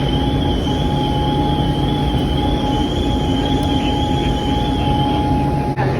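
Steady running noise of a vehicle, with a low hum, a constant whine and a fainter wavering high whine over it.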